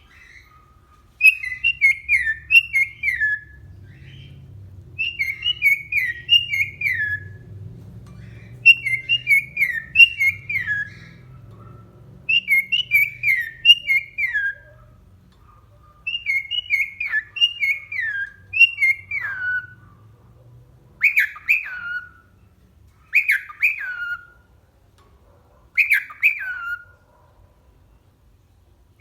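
Pet cockatiel whistling its song: short phrases of three to five quick falling whistled notes, repeated every few seconds. Near the end these give way to single shorter falling calls.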